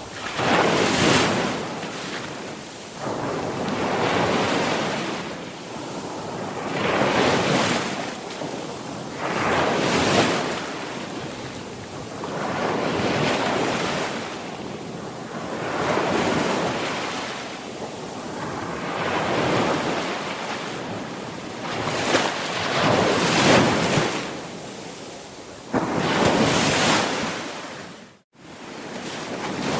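Sea waves breaking and washing up the shore, one swell after another about every two to three seconds. The sound cuts out for an instant near the end.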